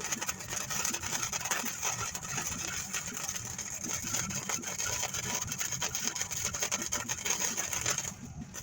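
Electric welding arc crackling and hissing steadily as a steel frame rail is welded, stopping briefly near the end.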